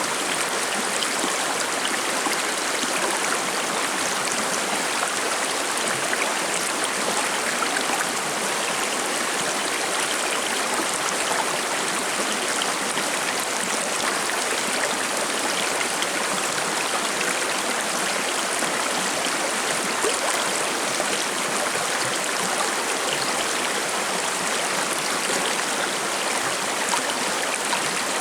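Shallow forest stream babbling and splashing over rocks, a steady, even rush of flowing water.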